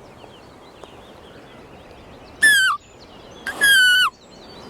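Two high-pitched bleats made by blowing on a strip of chocolate-bar foil held between the hands, a homemade call imitating a fallow deer fawn. Each call drops in pitch at its end; the second is longer.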